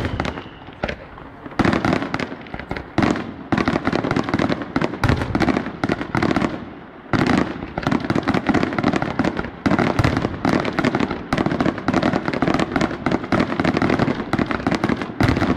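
Fireworks going off in a dense, continuous barrage of rapid bangs and crackling, with a brief lull about seven seconds in.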